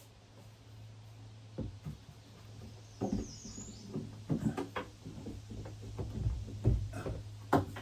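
Scattered knocks and taps from handling and fitting wooden cabinet parts, growing busier after about three seconds, over a steady low hum.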